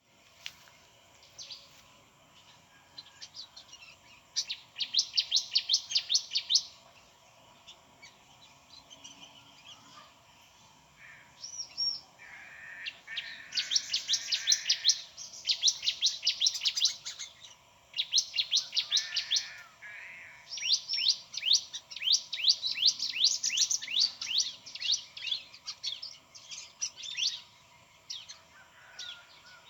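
Sooty-headed bulbul singing: repeated bursts of rapid, high chirping notes, each burst a second or two long, with short pauses between.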